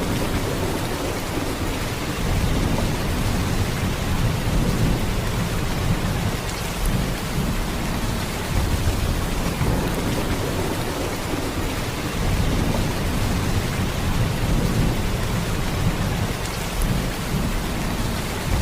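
Heavy rain falling in a steady downpour, an even rushing hiss with a deep low rumble underneath.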